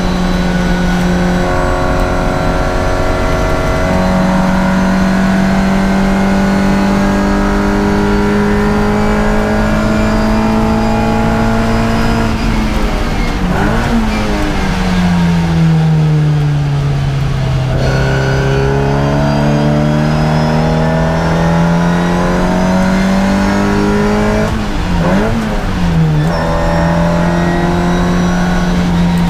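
Race car's engine heard from inside the cockpit, pulling hard on track: its note climbs slowly, falls and wavers about halfway through, sinks low and then climbs again, with another brief waver near the end.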